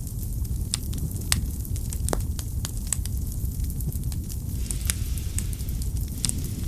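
Wood fire burning in a fireplace: a steady low rumble of flames with irregular sharp crackles and pops from the firewood.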